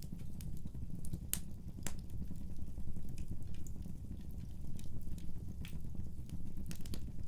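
Wood fire burning in a fireplace: a low steady rumble of the flames with irregular sharp crackles and pops, two louder pops about one and a half and two seconds in and a cluster near the end.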